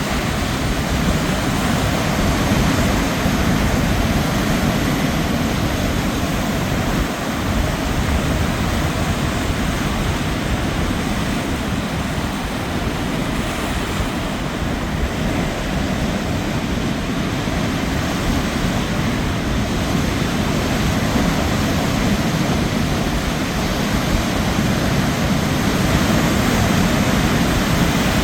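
Ocean surf and wind making a steady rushing noise, heaviest in the low end, with no distinct wave breaks or bird calls standing out.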